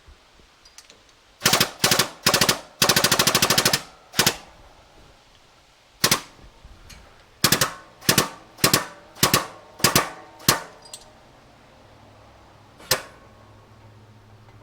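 Shop press being worked to straighten a motorcycle fork tube: a series of sharp metallic clacks, with a fast rattling run about three seconds in and an evenly spaced string of about eight clacks in the middle, ending with one lone click.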